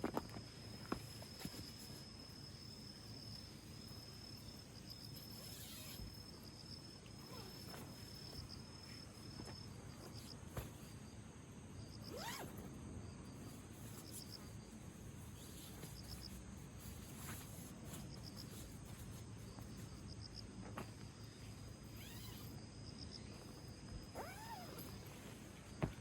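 Insects trilling in a steady high tone that breaks into short pulsing groups at times, with a few faint clicks and knocks.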